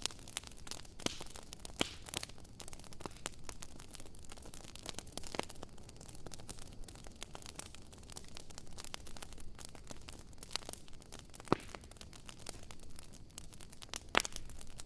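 Campfire wood burning, with steady crackling and irregular sharp pops and snaps, a few louder ones standing out.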